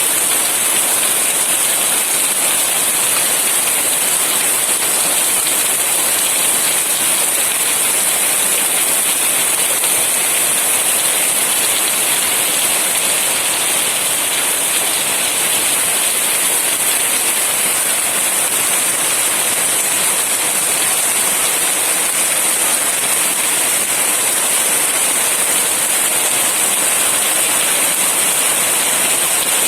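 Heavy monsoon rain falling steadily, a dense even hiss with no separate drops standing out.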